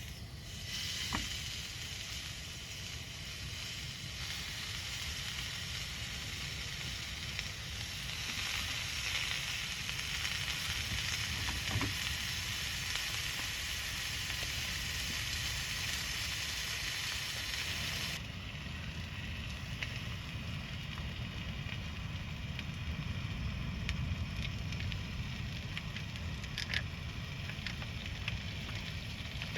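Food sizzling over a campfire: a dense, steady frying hiss. About eighteen seconds in it changes abruptly to a quieter hiss, with a few sharp crackles near the end.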